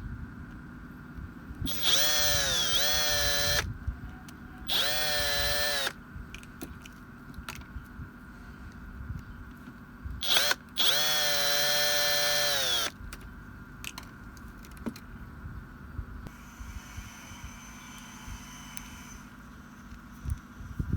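A small electric power tool's motor is run in three short bursts with a quick blip before the last. Each time it spins up to a steady whine and winds down again.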